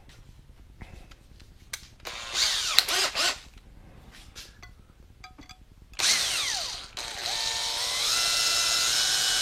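Electric drill boring a hole through a piece of metal L-angle. A short run comes about two seconds in, then a longer steady run from about six seconds, its pitch climbing in steps as the motor speeds up.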